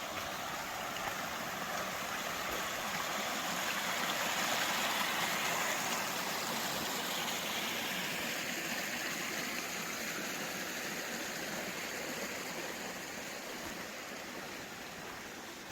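A creek rushing over rocks, a steady hiss of flowing water. It grows louder to a peak a few seconds in, then slowly fades.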